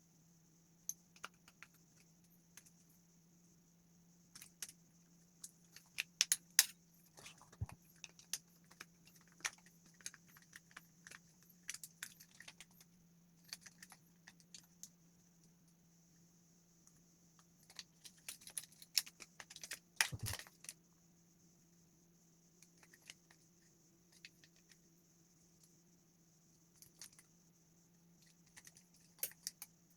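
Handling of small hard parts: scattered light clicks, taps and rattles, busier in two spells, about a fifth of the way in and around two thirds through, over a faint steady hum.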